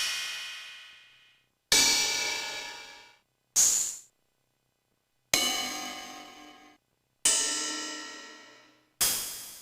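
MFB-501 Pro drum machine playing its stored cymbal samples one at a time: five separate metallic hits, about two seconds apart, each ringing out and fading to silence. The third hit is a short, bright ping.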